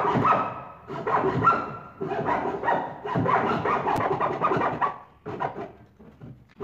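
Hand saw cutting through wood, a run of rasping back-and-forth strokes broken by short pauses, with shorter, fainter strokes near the end.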